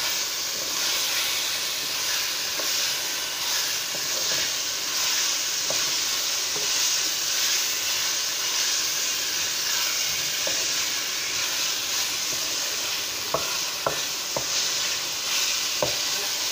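Chicken pieces sizzling steadily as they fry in a masala gravy in a stainless steel pan, stirred with a wooden spatula. The spatula scrapes the pan, and a few knocks against the steel come near the end.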